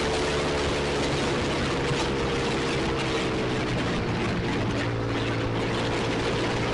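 Single-cylinder engine of a Kawasaki Ninja 250 Mono running through an SC-Project aftermarket exhaust, holding fairly steady revs, over a steady hiss of wind and road noise.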